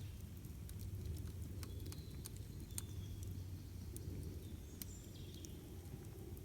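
Wood campfire crackling with irregular sharp pops over a steady low rumble, with a few short high bird chirps.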